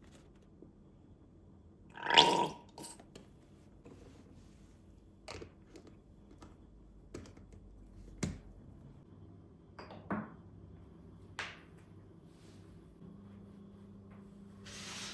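Household handling sounds: a short loud rustle or scrape about two seconds in, then scattered sharp clicks and knocks, with a faint steady hum coming in about nine seconds in.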